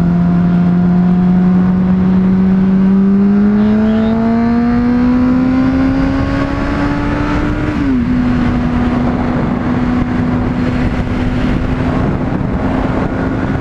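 Honda CBR600RR inline-four sport-bike engine pulling up slowly through the revs in one gear. About eight seconds in, an upshift drops the pitch quickly, and the engine then holds a steady cruise, with wind rush on the microphone.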